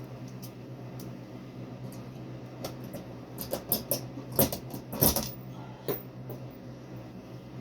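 A cluster of small clicks, taps and knocks from hands working with hardware, loudest twice near the middle, over a steady low hum.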